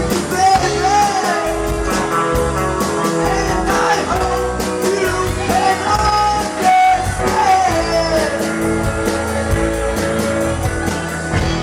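Rock band playing live: a singer over guitars and drums, with a steady cymbal beat.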